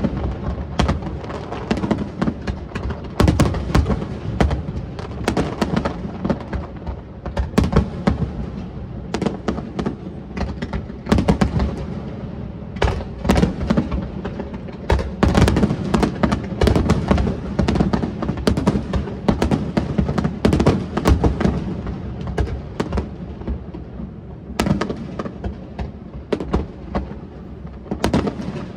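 Fireworks display with aerial shells bursting and crackling in rapid, unbroken succession, several bangs a second at the busiest moments.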